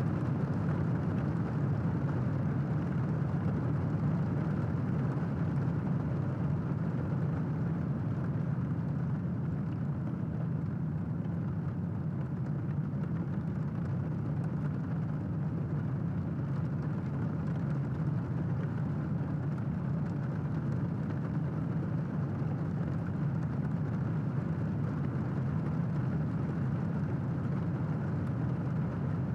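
Steady rain, a low, muffled, even rush with little hiss and no distinct thunderclaps.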